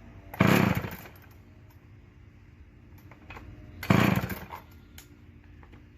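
Vintage McCulloch two-stroke chainsaw running at idle, throttled up in two short, loud bursts: about half a second in and again about four seconds in. Between the bursts it idles steadily at what the owner feels is an elevated idle.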